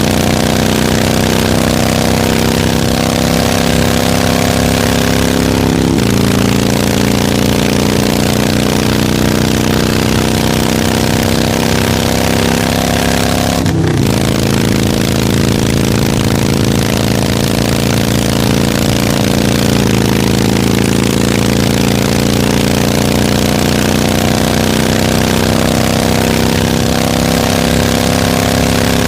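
Harley-Davidson V-twin motorcycle engine running continuously at a low, steady speed. Its pitch creeps slowly up and then drops back suddenly three times, and once more near the end.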